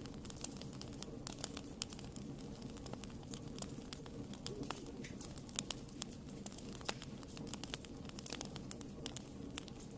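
Wood fire in a fireplace crackling, with frequent irregular sharp pops and snaps over a low, steady rumble of burning.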